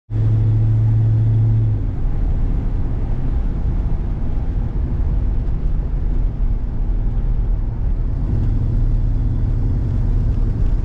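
Car engine and road noise while driving: a steady low drone, with a humming tone that is strong for the first two seconds and comes back near the end.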